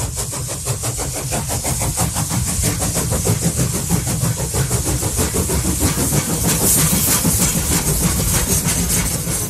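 Train running: a fast, even mechanical rhythm over a steady hiss and low rumble, growing louder over the first couple of seconds.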